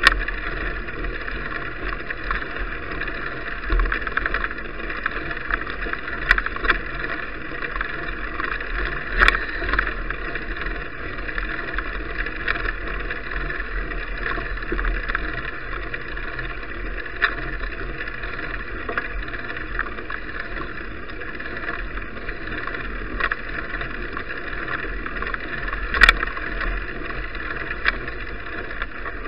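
Steady rushing noise of a bicycle ride, tyres and wind, picked up on an action camera's microphone, with a few sharp knocks, the loudest about 26 seconds in.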